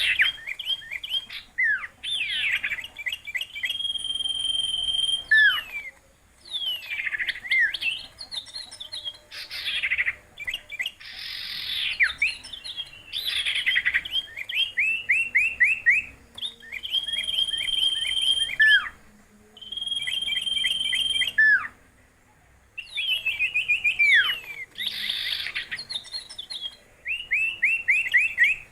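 A songbird singing a varied song in phrases of one to three seconds with short pauses between them: rapid trills, quick downward-sweeping notes and steady high whistles.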